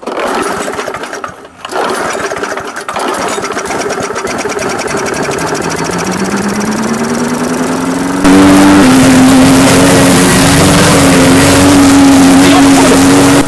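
Gasoline lawn mower engine catching at once, faltering briefly, then running and climbing in pitch as it speeds up. About eight seconds in it jumps louder and runs steadily at full speed.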